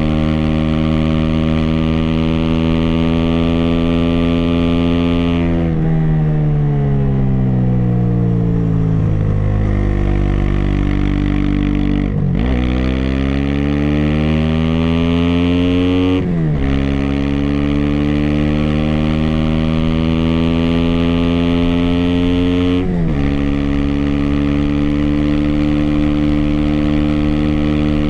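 Aprilia SX 125's single-cylinder four-stroke engine, running through an Arrow Thunder slip-on and racing header, heard while riding. It holds steady revs, then the pitch falls away for several seconds as the throttle closes. It rises again and climbs through two gear changes, each a brief break followed by a drop in pitch, about halfway and near the end.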